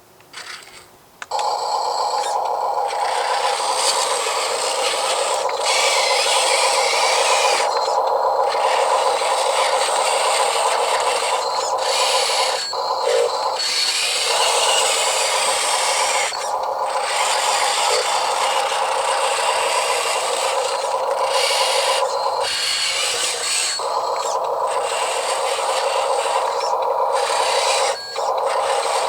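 Huina 1582 RC dump truck's electric motor and gearbox whirring as it drives over rough ground, starting about a second in after a couple of clicks and pausing briefly a few times.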